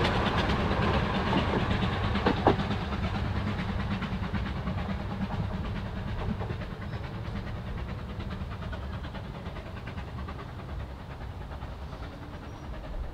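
A 2 ft narrow-gauge passenger train's carriages rolling away over the track, wheels clicking over the rail joints, fading steadily into the distance. There is one sharp knock about two and a half seconds in.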